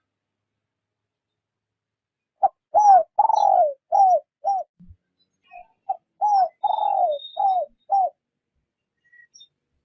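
Spotted dove giving its decoy-calling coo: two phrases of five or six short coos, each note dipping in pitch at its end. The first phrase starts about two and a half seconds in, the second about six seconds in.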